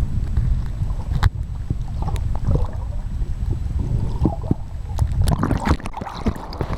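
Water sloshing and gurgling over a steady low rumble, with scattered pops and clicks.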